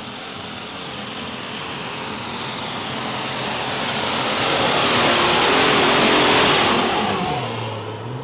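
Alcohol-burning super stock pulling tractor running flat out down the track, with a steady high whistle over the engine noise. It grows louder to a peak about two-thirds of the way through, then fades as it goes past.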